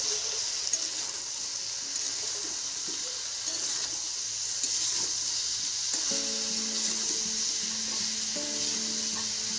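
Vegetable pieces sizzling in hot oil in a kadai while a spatula stirs them, a steady frying hiss. Soft background music with held notes comes in about six seconds in.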